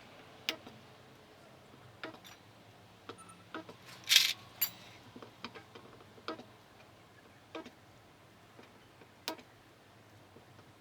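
Irregular light clicks and knocks from car body-repair work, about one a second, with one louder, short hissing crack about four seconds in.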